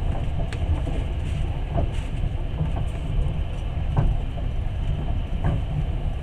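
Long-distance passenger train running, heard from inside the carriage: a steady low rumble of the wheels on the rails, with a few short clicks scattered through it.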